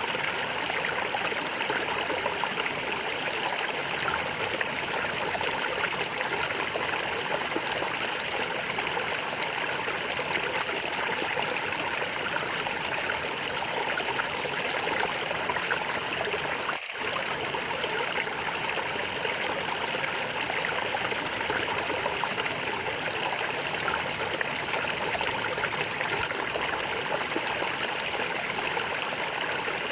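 Flowing water gurgling and trickling steadily, like a small stream, with a momentary dropout about seventeen seconds in.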